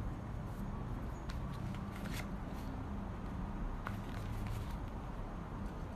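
Soft rustling and scattered small clicks from socks being handled, over a steady low rumble.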